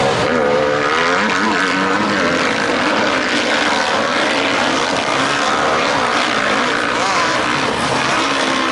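Motocross dirt bike engines racing, their pitch rising and falling as the riders open and close the throttle.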